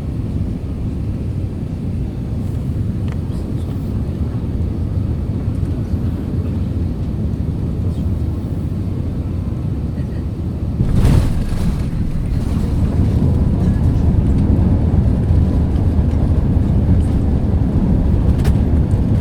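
Steady low rumble inside an Airbus A380's cabin during landing. About halfway through comes a sudden jolt-like noise, the likely main-gear touchdown, and the rumble is louder after it.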